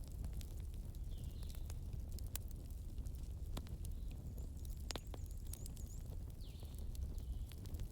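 Wood fire in a fireplace crackling: frequent sharp pops and snaps of burning logs over a low steady rumble of the flames, with a few faint high whistles in between.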